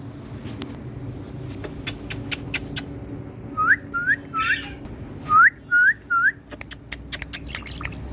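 Pet Indian parrot whistling: two sets of three short rising whistles, with sharp clicks scattered around them.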